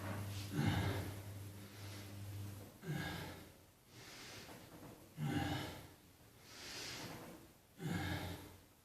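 A person breathing hard from exertion, with forceful breaths about every two and a half seconds, four in all.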